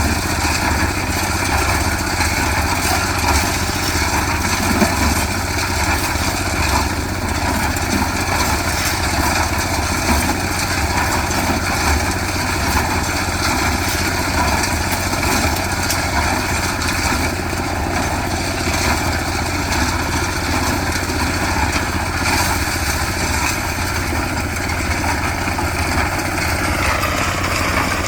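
Small engine of a portable concrete mixer running steadily during a concrete pour.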